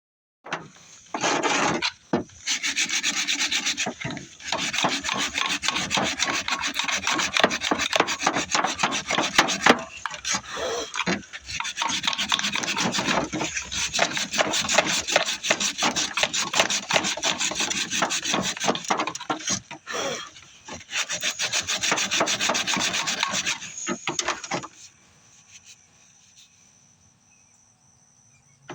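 Sandpaper rubbing on a freshly shaped oak hammer handle in rapid back-and-forth strokes. There are short breaks about 2, 4 and 20 seconds in, and the sanding stops a few seconds before the end.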